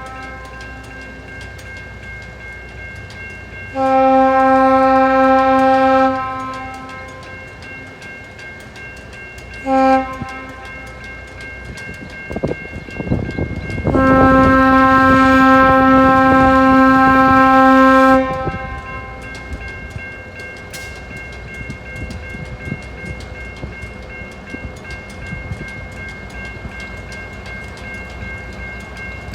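Diesel locomotive air horn sounding in blasts, a long one, a short one, then a final long one: the end of the long-long-short-long grade crossing signal. Between and after the blasts the moving locomotive rumbles and its wheels clack over the rails.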